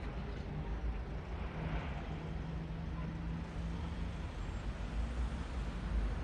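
Low rumble and hum of a train at a railway station, growing louder near the end as the train draws nearer.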